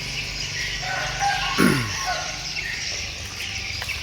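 Steady high-pitched chirring of insects, with a brief falling tone about a second and a half in.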